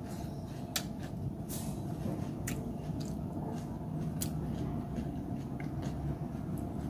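Someone chewing a mouthful of fresh vegetable salad, with a few sharp clicks from a fork picking through the salad on the plate.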